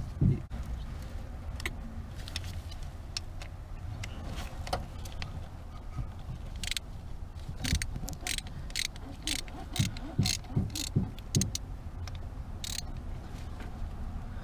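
Socket ratchet clicking as the rocker-arm adjuster nuts on the Simca 1204 engine's valve gear are turned loose, with scattered sharp metallic ticks. The nuts are coming off easily.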